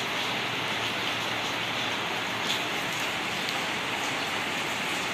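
Steady rain falling, an even hiss with a few louder single drops about halfway through.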